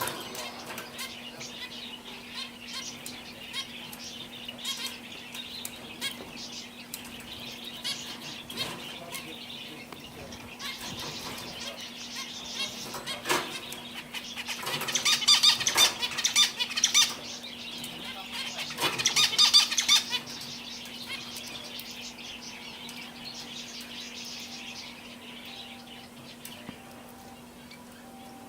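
Canaries chirping and fluttering their wings, with two louder bursts of rapid twittering song about halfway through. A faint steady low hum runs underneath.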